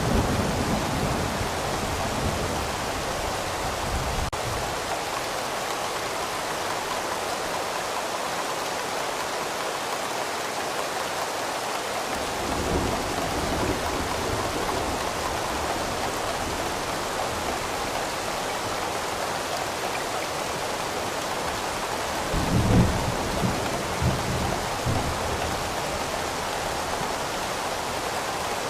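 Steady rain with low rolls of distant thunder: one in the first few seconds, one about halfway, and the loudest a few seconds before the end.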